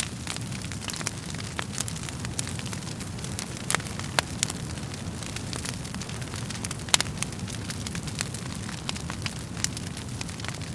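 Wood fire crackling: a steady low rumble of flames with frequent sharp, irregular pops and snaps from the burning logs, a few louder snaps standing out.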